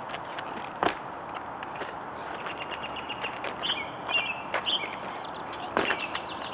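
Birds chirping over steady outdoor background noise, with two brief sharp sounds, the loudest things here, about a second in and near the end.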